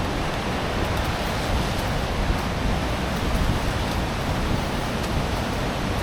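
Steady rush of fast-flowing water, an even hiss over a deep rumble.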